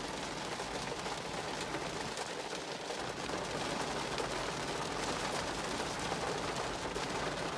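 Heavy rain pouring down: a dense, steady patter of drops striking a hard surface.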